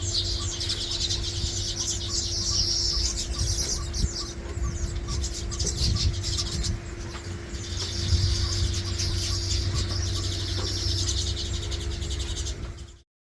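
Baya weavers chattering as a flock in two long stretches of dense, high twittering, over a steady low hum. The sound cuts off abruptly just before the end.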